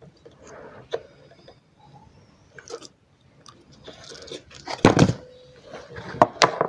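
Close handling noises of small objects and plastic syringe parts: scattered clicks, taps and rustles, with a louder clatter about five seconds in and a few sharp knocks near the end.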